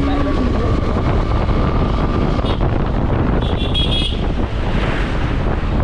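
Motorcycle under way on a road: engine and road noise with wind buffeting the microphone, and a short, high horn toot about three and a half seconds in.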